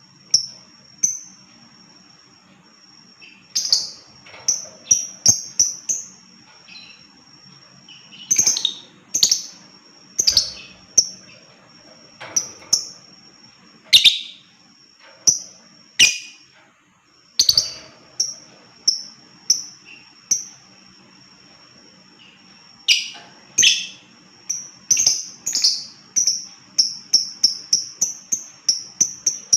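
Lovebird (Agapornis) chirping: sharp, high-pitched calls in clusters separated by short pauses. Near the end comes a quicker run of evenly repeated notes, about four a second.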